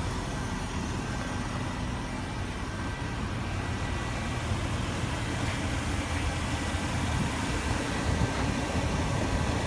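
Range Rover Supercharged's 5.0-litre supercharged V8 idling steadily.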